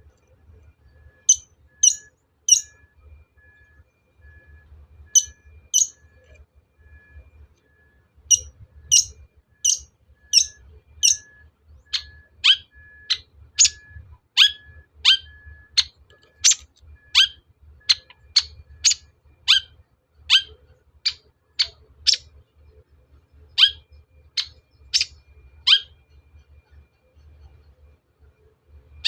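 Long-tailed shrike giving sharp, harsh calls, each sweeping quickly down in pitch. They come in short groups of two to four at first, then from about twelve seconds in as a steady series of one or two calls a second.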